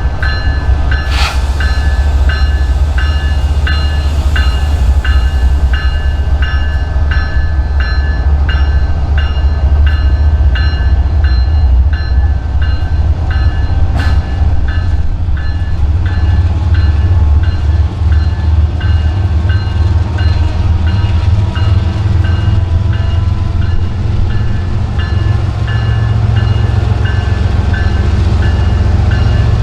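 Diesel train rumbling steadily with a bell ringing at an even pace, about one and a half strokes a second.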